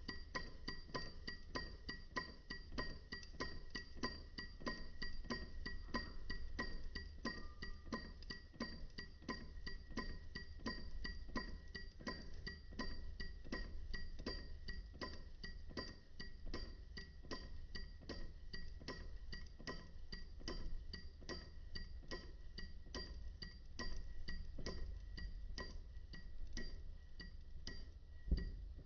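PM Research solar Stirling hot-air engine running, its moving parts clicking a few times a second with a metallic ringing clink on each stroke. A single louder thump near the end.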